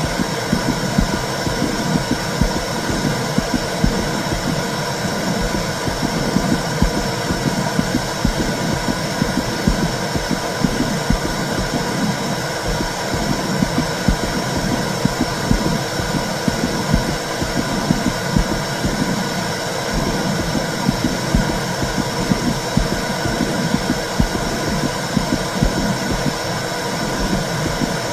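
Intrauterine (womb) sound: a steady whooshing noise with a low, throbbing pulse like a muffled heartbeat.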